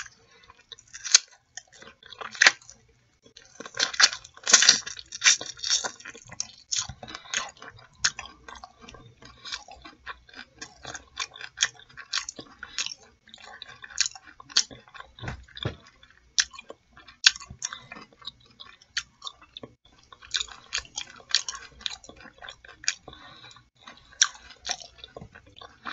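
A person biting and chewing fried chicken in mumbo sauce: irregular wet mouth clicks and smacks, with a denser, louder run of bites about four to six seconds in.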